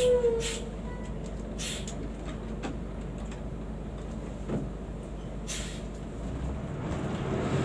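Car engine idling, heard from inside the cabin, with a steady low hum; it opens with the end of a loud tone that dips in pitch and cuts off, and a couple of sharp clicks follow. Near the end the engine grows louder as the car pulls away.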